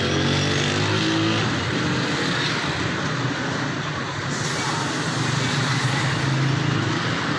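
Road traffic: the engines of nearby vehicles running, with a steady low hum and constant road noise.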